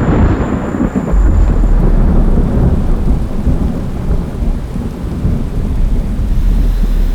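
Thunder rumbling over rain, the deep rumble swelling about a second in and holding.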